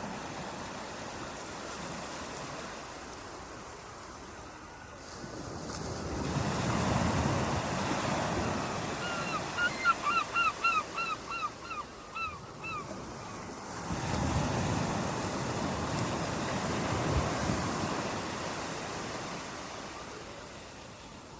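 Ocean waves washing in, swelling twice. Partway through, a bird calls a quick series of about ten short, sharp notes, about three a second.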